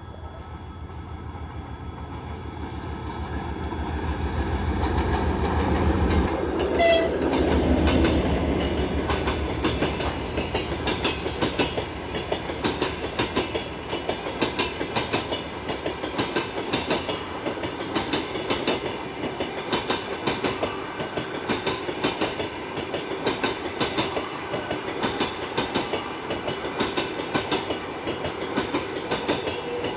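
A train approaching and passing close by, growing louder over the first six seconds, with a brief horn toot about seven seconds in. The wheels then go clickety-clack over the rail joints in a steady rhythm as the cars roll past.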